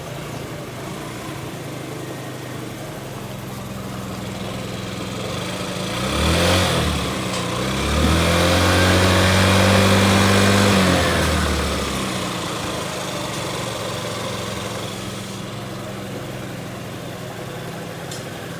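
Yamaha Fancy 50 scooter's water-cooled engine idling steadily. It is revved briefly about six seconds in, then held at higher revs for about three seconds before dropping back to idle.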